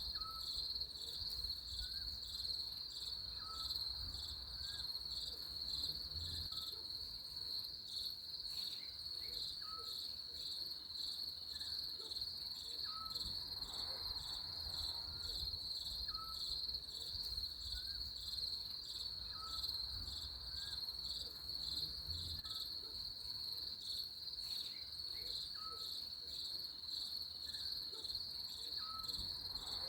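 Crickets trilling in a steady, high, finely pulsing chorus, with faint short chirps every second or two beneath it.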